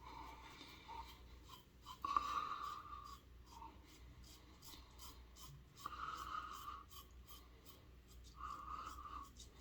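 Wet shave on the face: four short rasping, rubbing strokes of about a second each, at low level, with a faint fine crackle between them.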